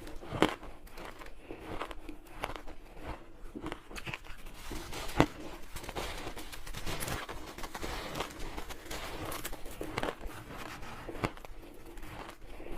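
Close-up biting and chewing of soft, chunky freezer-frost ice: a continuous run of crisp, crumbly crunches, with two sharper, louder bites, one about half a second in and one about five seconds in.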